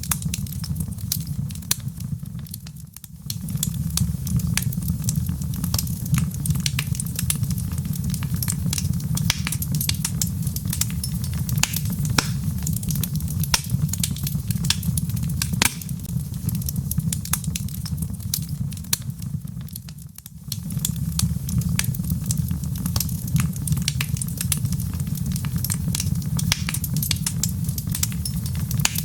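Wood logs burning in a fireplace: many sharp crackles and pops over a steady low rumble of the flames. The sound briefly drops away twice, about three seconds in and again around twenty seconds.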